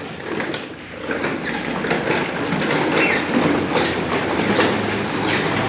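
Toy off-road cars running, a steady rumble of motor and wheels with scattered knocks and thuds.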